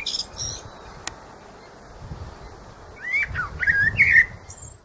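Birds chirping and whistling in quick, short gliding calls over a faint low rumble, with a lull in the middle and the calls returning after about three seconds. The sound cuts off abruptly near the end.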